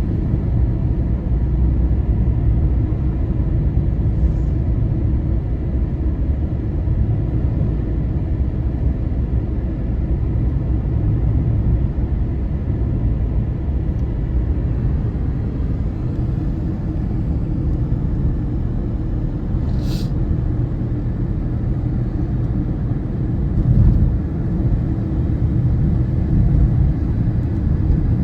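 Wind rumbling steadily on the microphone outdoors, with one brief sharp click about twenty seconds in.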